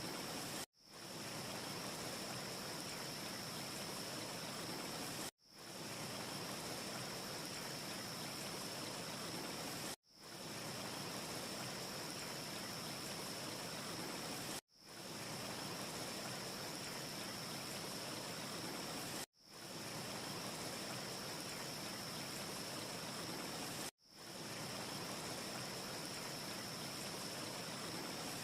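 Steady, even hiss of a wind ambience with a faint high whine in it, cutting out to silence and fading back in about every four and a half seconds. No fire crackles stand out.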